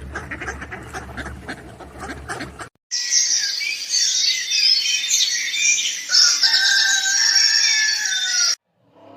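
A flock of chickens calling loudly over one another, shrill and dense, for about six seconds before cutting off abruptly. It follows a few seconds of lower, clicky farm-animal noise that ends with a cut.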